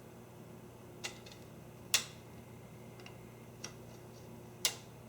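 Sharp clicks from handling an arrow-fletching jig and its clamps: four clicks spaced irregularly about a second apart, the second the loudest, over a faint steady low hum.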